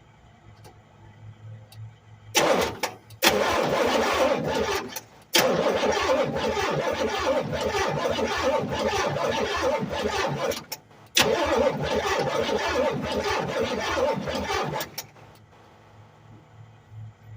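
Buick 455 V8 cranked by its starter in four long attempts with short pauses between, following a points-to-HEI ignition swap and fresh plugs and gas.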